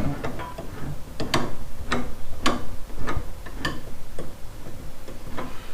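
A series of sharp, single metallic clicks, roughly two a second, typical of a ratchet wrench tightening the hot rod's steering column fittings.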